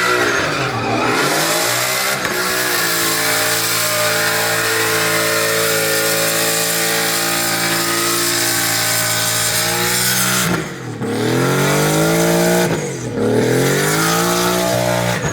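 Truck engine held at high revs during a burnout, holding steady for several seconds. Near the end the revs drop and climb back twice.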